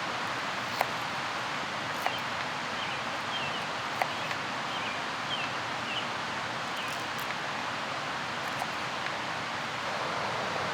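Steady rushing of a mountain river, with a few sharp clicks standing out and a short run of faint high chirps in the middle.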